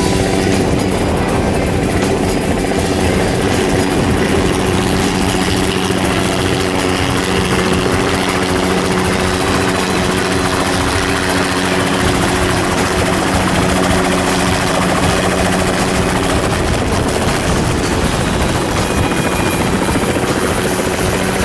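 Helicopter running steadily, its rotor and engine noise loud and continuous with a steady hum.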